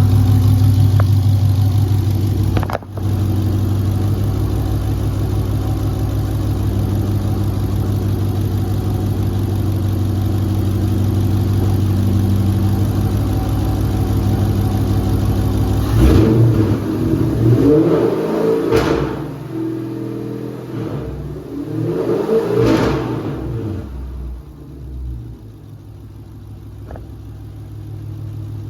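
Dodge Charger's 5.7-litre Hemi V8 idling steadily, then revved twice about halfway through and settling back to a quieter idle. No knock is heard at idle or when revved, which the owner takes to mean the knock he feels when driving is not coming from the engine.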